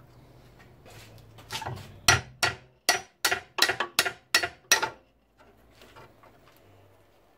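A hammer striking metal car suspension parts, about nine sharp blows in quick succession at roughly three a second, the first one softer. The parts are being knocked loose while the front suspension is stripped.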